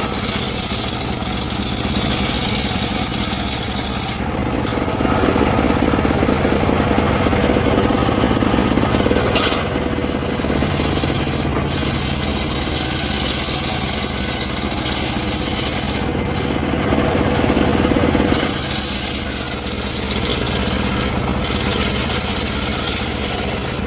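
Engine-powered saw running steadily and cutting through hardwood, the hissing cut noise rising and falling in stretches of a few seconds over the steady engine.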